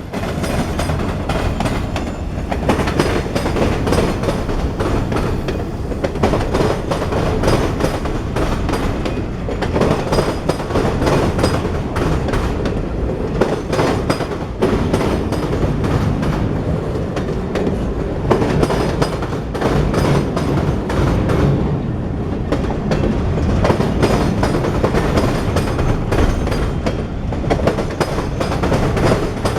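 A CSX mixed freight train rolling past, a steady rumble of wheels on rail with many irregular clacks and knocks from the wheels and cars.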